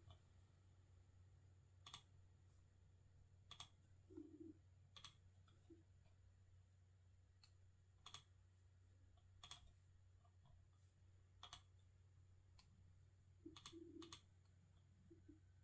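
Computer mouse clicking: about eight single sharp clicks, one every second or two, with a few soft low knocks between them and a faint steady low hum underneath.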